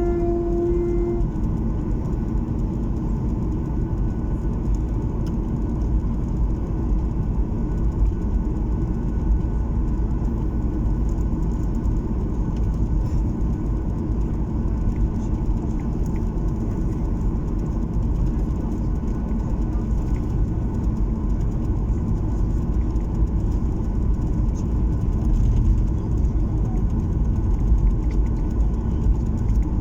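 Steady low rumble of an airliner's engines and airflow heard from inside the passenger cabin, with a short steady tone that stops about a second in.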